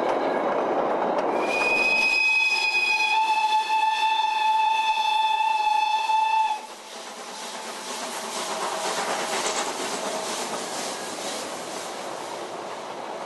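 Narrow-gauge train sounding a long, loud whistle of several tones, starting about a second and a half in and cutting off after about five seconds, over the noise of the moving train. After it stops, the train's running and wheel clatter carry on more quietly.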